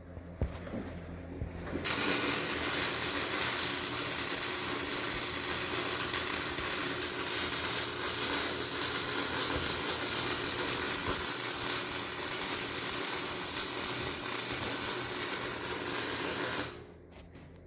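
Electric arc welding on the steel seat and plow frame of a tractor: one continuous weld bead. The arc strikes about two seconds in, holds a steady, loud hiss for about fifteen seconds, and cuts off suddenly near the end.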